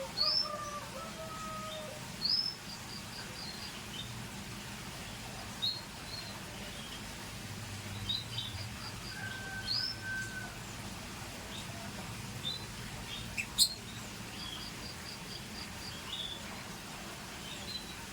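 Scotch Fancy canaries calling: scattered short high chirps, a few quick runs of about five notes and a couple of brief held whistles. A single sharp click sounds about two-thirds of the way through, the loudest thing in the clip.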